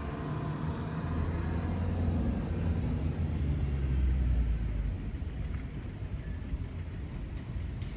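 Low engine rumble of a vehicle, swelling over the first few seconds and fading away about five seconds in.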